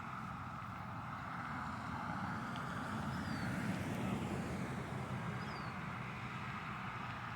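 Steady road traffic noise, swelling to its loudest about halfway through as vehicles pass.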